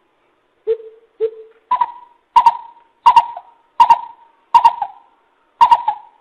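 Greater coucal calling: a series of about eight hollow hoots, roughly one every 0.7 seconds. The first two are lower, and the rest are pitched a step higher.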